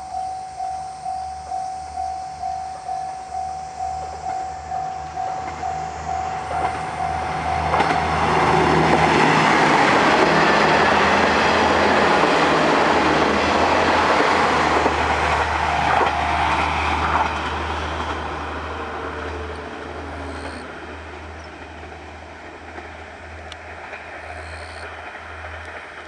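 Level-crossing warning bell ringing about twice a second, then a train of KiHa 48 diesel railcars passes over the crossing. Its engines and wheel clatter drown out the bell at their loudest, then fade away over the last several seconds.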